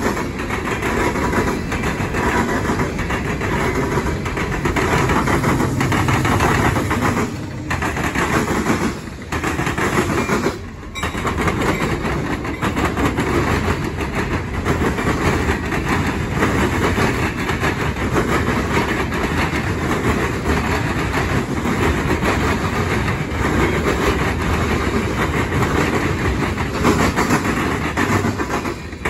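Norfolk Southern freight train rolling past, its steel wheels clattering and clicking over the rail joints as a long string of hopper, tank and covered hopper cars goes by. A mid-train diesel locomotive passes partway through. The noise dips briefly a few times about a third of the way in.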